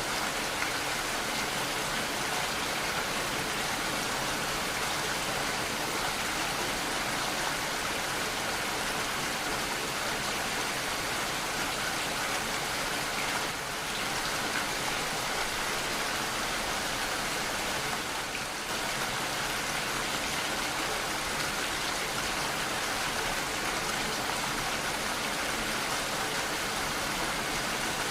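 Steady rainfall, a dense, even hiss of many drops.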